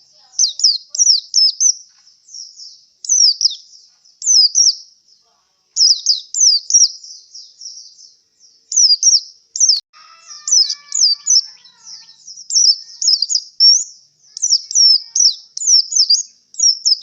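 Male pleci (white-eye) singing: quick, high twittering phrases of sharply falling notes, each phrase lasting a second or two, with short pauses between.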